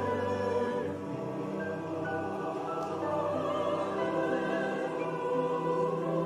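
Church choir singing a Christmas choral piece in long held chords, the chord changing about a second in.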